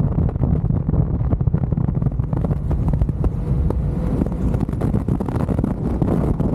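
Wind buffeting the camera microphone while riding an electric unicycle: a steady low rumble with scattered crackles throughout.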